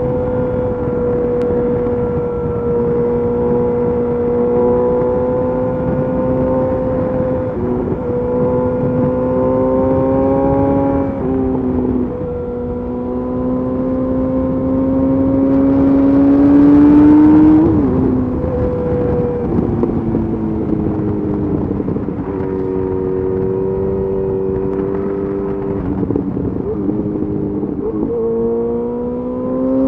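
Yamaha FZ8's inline-four engine running through a LeoVince exhaust with the dB killer removed, under way on the road. The note holds fairly steady with several short dips as gears change, climbs in revs about midway and falls off sharply at a shift, then rises again near the end.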